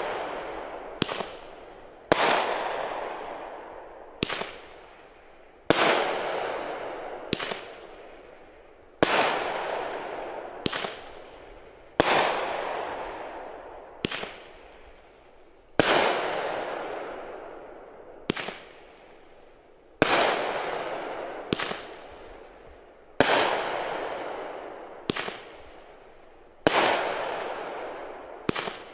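500-gram repeating aerial firework cake firing shot after shot, about one every three and a half seconds. Each shot is a small sharp launch pop, then about a second and a half later a louder burst bang that fades away over a couple of seconds.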